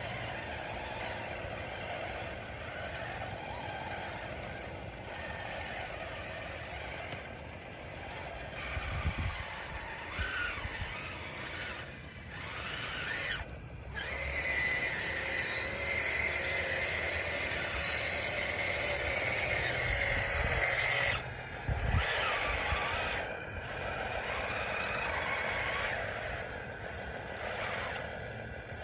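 Radio-controlled DXR2 bulldozer working, its electric drive motors whining as it pushes, with a steady high whine from about a third of the way in until two-thirds through.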